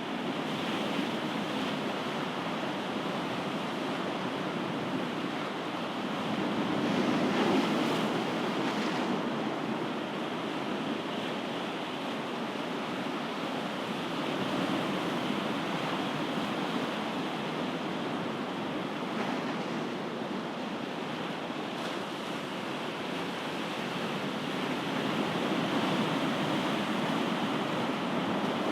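Ocean waves breaking and washing on a shore: a continuous rushing surf that swells and eases slowly, louder about seven seconds in and again near the end.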